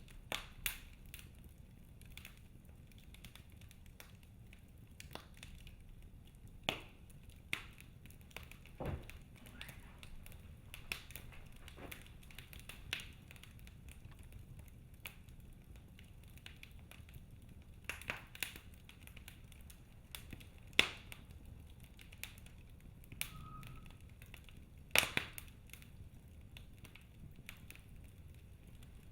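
Log fire crackling in a fireplace: irregular sharp pops and snaps of burning wood over a steady low hiss, with a few louder cracks in the second half.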